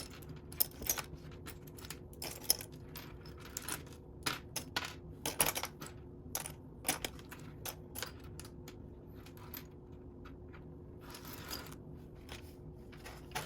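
Loose plastic Lego pieces clicking and rattling against each other in quick, irregular taps as they are sifted through by hand, with a brief quieter spell past the middle.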